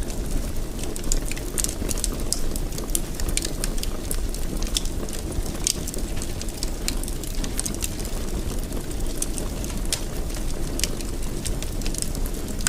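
Wood fire in a fireplace, burning with a steady low rumble and frequent irregular crackles and pops.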